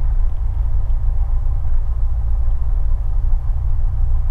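Light piston airplane's engine and propeller running steadily at low taxi power, a constant low drone heard from inside the cabin.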